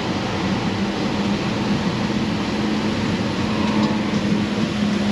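GMC Envoy's engine running at a steady idle, a constant hum under a broad rushing noise.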